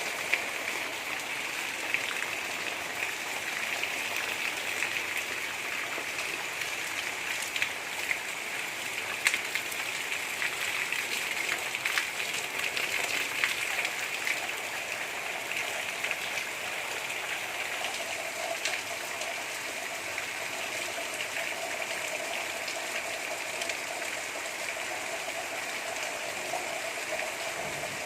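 Steady gentle rain falling, a continuous hiss with scattered individual drops ticking close by.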